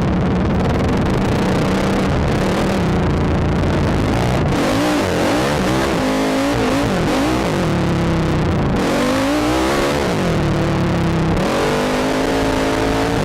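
ATV engine running under throttle, its pitch rising and falling repeatedly through the middle of the stretch as the throttle is worked, steadier at the start and end, heard from the rider's helmet.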